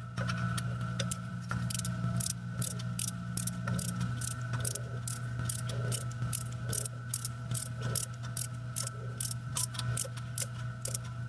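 Ratchet wrench being worked, clicking at a steady pace of about three clicks a second, over a steady low hum.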